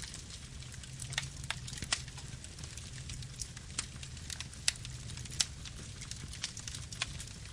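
Campfire burning: wood crackling with irregular sharp pops over a low, steady rumble, with two louder pops a little past the middle.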